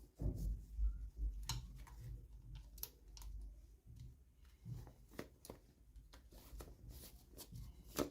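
Hands unpacking small toys: scattered light clicks, taps and rustles of packaging being handled.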